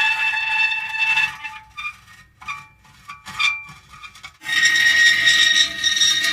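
Metal creaking: drawn-out squealing strains that break off about a second in, a stretch of short, quieter squeaks, then loud squealing again just after the middle.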